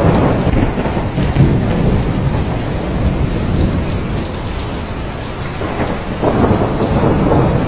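Heavy rain falling steadily with rolling thunder rumbling underneath. The thunder swells early on, eases in the middle and builds again about six seconds in.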